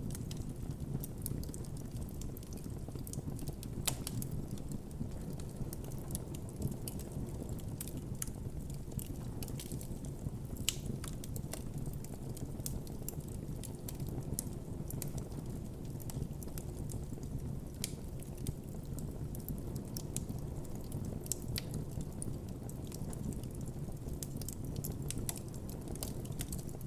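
Wood campfire crackling, with frequent irregular snaps and a few louder pops over a steady low rush of the flames.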